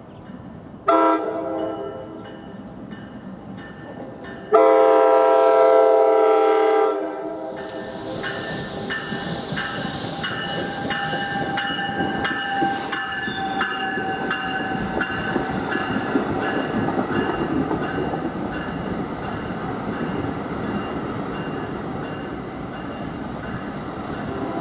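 NJ Transit passenger train's air horn sounds a short blast, then a longer, louder blast of a few seconds. The train then rolls past with steady noise, wheel clicks over the rail joints and a high whine.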